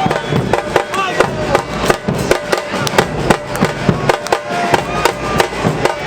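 Supporters' drums beating a fast, steady rhythm under a crowd singing and chanting in the stands.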